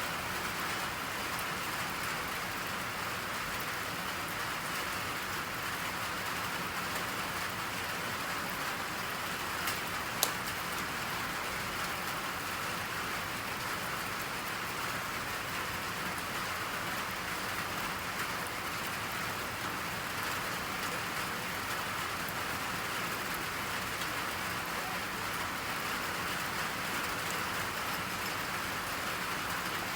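Steady rain falling, an even hiss with no let-up. About ten seconds in, a single sharp click sounds over it.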